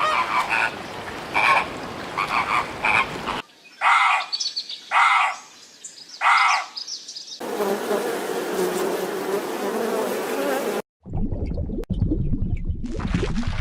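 Animal sounds in short clips cut one after another: three short calls in the middle, then a steady buzzing haze, and a low rumble near the end.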